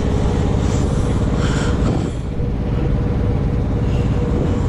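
Heavy truck's diesel engine idling steadily, with a few faint clicks in the first couple of seconds.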